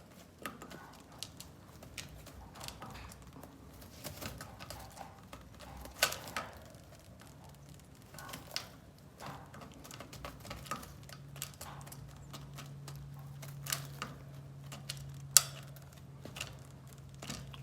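Young racing pigeons pecking at grain feed: irregular sharp taps and clicks of beaks striking seed and the feeder.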